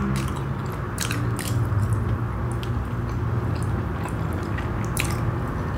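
A person chewing soft chocolate-filled naan bread close to the microphone, with several sharp wet mouth clicks and smacks.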